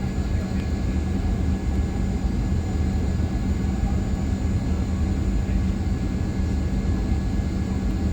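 Steady low drone of a Boeing 737-800's CFM56 jet engines and cabin air, heard from inside the passenger cabin, holding an even pitch with no change in level.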